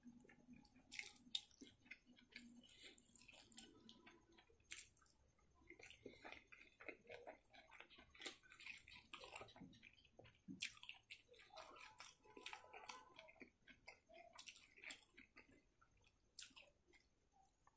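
A person chewing food with the mouth close to the microphone: quiet, irregular wet smacks and clicks of lips and tongue, with a sharper click about a second in.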